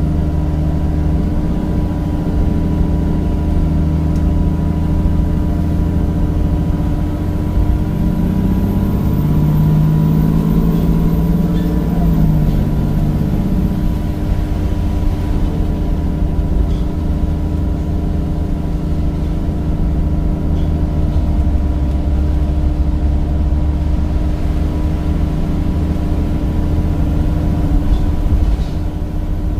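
Cummins diesel engine of a Temsa Avenue bus running steadily, its note swelling and falling away again between about 8 and 14 seconds in, with a faint high whine over that stretch.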